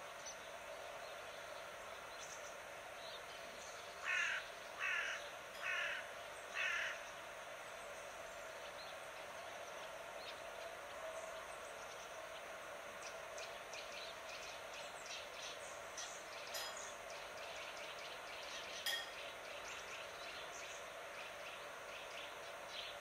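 A bird gives four calls about a second apart. Later, small birds chirp in quick runs over a steady background noise of outdoor ambience.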